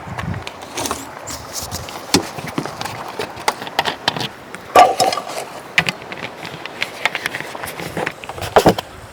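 Irregular knocks, taps and clatters, the loudest about five seconds in and again near the end.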